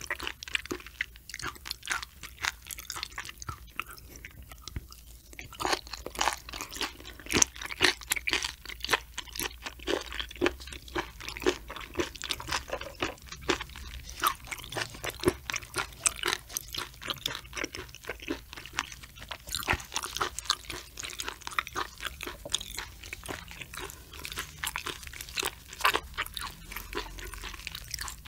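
Close-miked mouth sounds of a person chewing raw sturgeon sashimi: wet chewing with many sharp, irregular crunches from the sturgeon's cartilage and spine.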